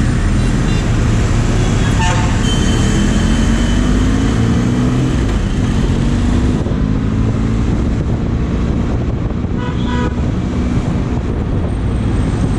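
Motorcycle ride in city traffic: the engine speeds up with rising pitch over heavy wind and road noise, and vehicle horns honk twice, about two seconds in and about ten seconds in.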